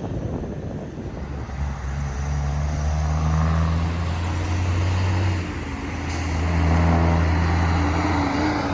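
Semi truck's engine brake (Jake brake) running, a deep steady drone that cuts out about five and a half seconds in and comes back less than a second later.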